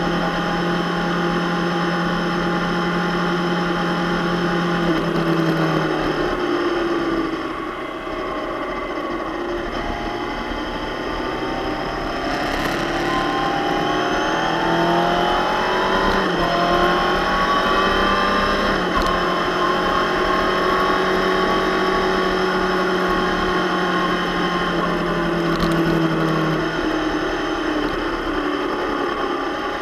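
Suzuki GSX-R600 K7 inline-four sport bike engine running on track, heard from the bike with wind rush: held steady, dropping off about seven seconds in, rising again through the middle as it accelerates, then easing off near the end.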